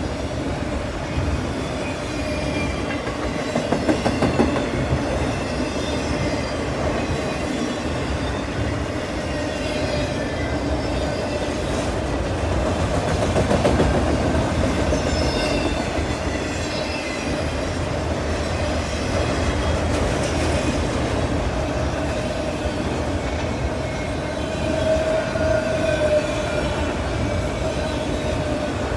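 Freight train of autorack and double-stack cars rolling steadily past, with a continuous rumble, wheels clicking over rail joints and a switch, and a faint steady wheel squeal. A quick run of clicks comes about four seconds in, and the squeal swells briefly near the end.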